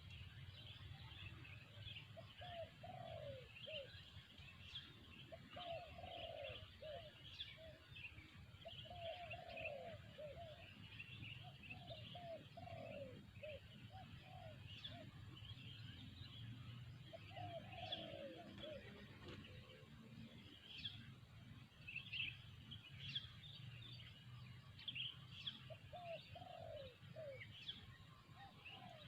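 Spotted dove cooing in repeated phrases of short, falling coos, with a pause of several seconds after the middle. Many small birds chirp faintly and continuously in the background.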